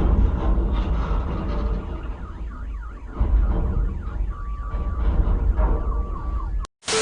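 Low vehicle rumble with a warbling, alarm-like tone above it and two short steady beeps in the second half. Just before the end the sound drops out briefly, then a short loud burst of hiss follows.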